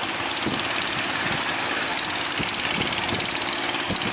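Boat engine running steadily with a fast, even beat, under a constant wash of noise.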